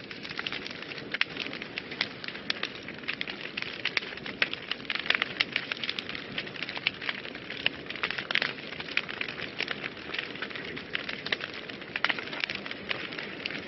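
Wood fire burning in a fireplace, crackling steadily with many sharp irregular pops over a soft hiss.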